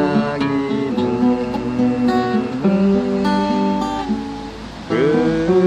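Acoustic guitar played alone, picking melody notes over arpeggiated chords, with a few notes sliding in pitch about five seconds in.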